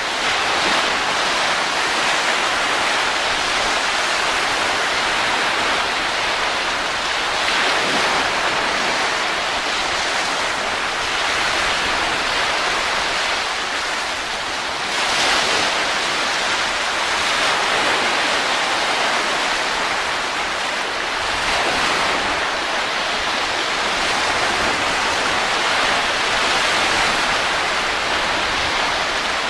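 Steady rushing wind with no music, swelling and easing gently every few seconds.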